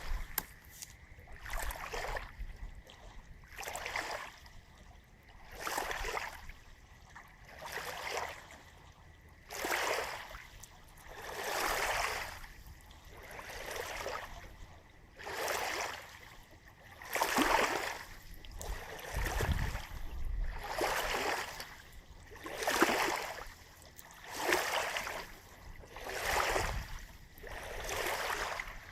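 Small lake waves lapping on a shore in a steady rhythm, one wash about every two seconds.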